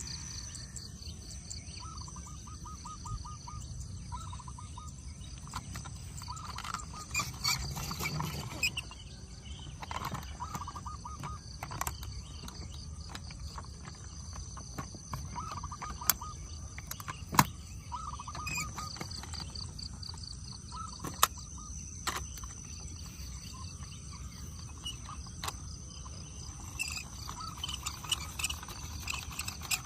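Outdoor ambience: a steady high-pitched insect drone, with short trains of rapid chirps every few seconds and a few sharp clicks.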